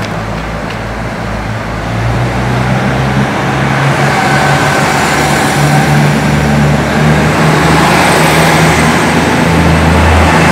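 KiHa 85 series diesel railcars of the Wide View Hida limited express pulling away from the station, their diesel engines working under power. The sound grows louder about two seconds in and again around four seconds as the train gathers speed.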